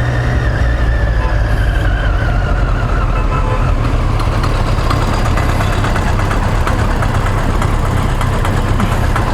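Motorcycle engine running steadily, with a deep low rumble and a faint whine that falls in pitch over the first few seconds.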